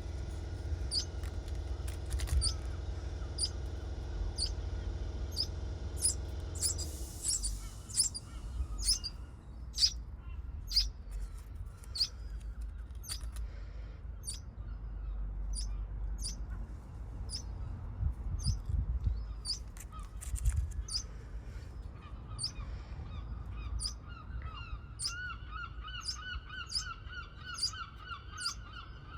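Small birds chirping, short sharp high chirps repeating about twice a second. A steady engine hum stops about seven seconds in. Near the end comes a rapid run of lower, repeated calls.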